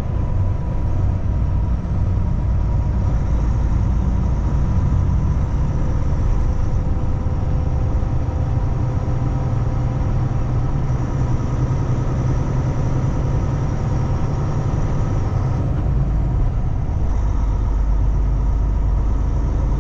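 A Kenworth T680 semi-truck cruising on the highway: a steady engine drone and road noise. The low drone changes about three-quarters of the way through.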